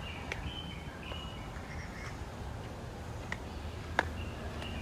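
Outdoor birds chirping in short, high, repeated calls over low background noise, with a sharp click about four seconds in.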